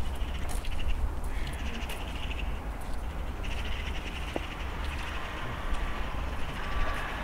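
Harsh bird calls, crow-like, in two stretches over a steady low rumble.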